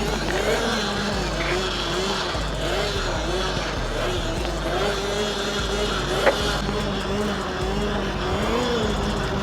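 Electric mini bike's motor whining, its pitch rising and falling again and again as the throttle is worked, with a sharp click about six seconds in.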